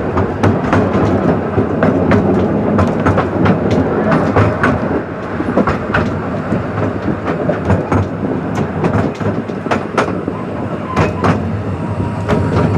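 A 12¼-inch gauge miniature railway train running along the track, heard from on board: a steady rumble of the carriages with frequent sharp clicks and clacks of the wheels over the rail joints. A faint thin squeal comes in near the end.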